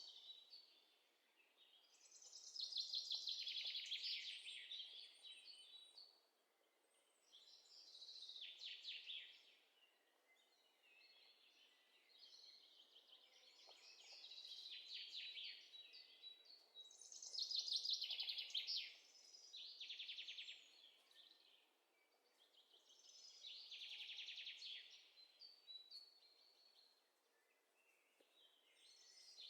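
Small birds chirping faintly: short, rapid trilled phrases of one to two seconds, repeating every few seconds.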